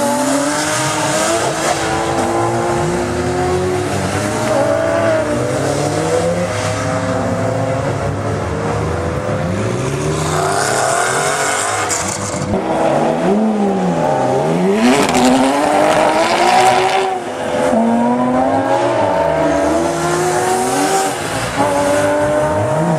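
Porsche 997.2 GT3 RS flat-six through a Shark Werks muffler-bypass exhaust, driven hard on track: the engine note climbs through the revs again and again with gear changes, and dips and rises quickly on downshifts under braking.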